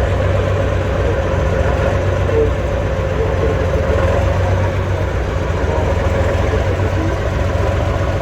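Heavy competition truck's engine running steadily at a low, even pitch.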